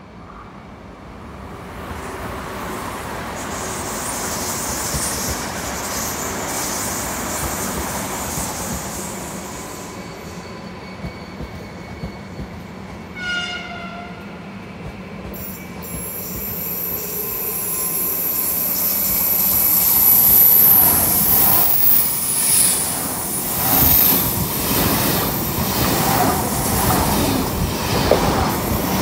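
Electric trains passing through a station. A double-deck commuter train rolls by, and a train horn sounds once, briefly, near the middle. A red Frecciarossa high-speed train then passes close by, and its high-pitched whine and wheel noise grow loud over the second half.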